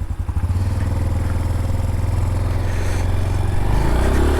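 Honda Pop 110i's small single-cylinder four-stroke engine running with a steady pulsing note, its pitch shifting about three and a half seconds in.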